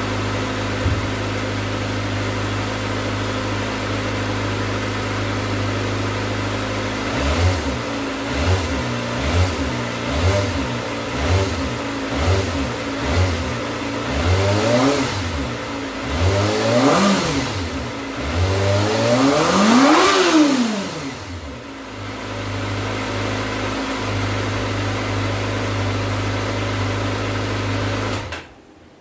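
Kawasaki ZX25R's 250cc inline-four running through an Austin Racing GP1R exhaust: steady idle, then a quick run of short throttle blips, then three longer revs, each climbing higher than the last, before it settles back to idle. The sound cuts off suddenly near the end.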